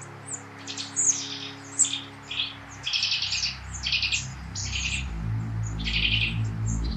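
Forest songbirds chirping and trilling in a quick series of short high calls, over soft background music with low held notes.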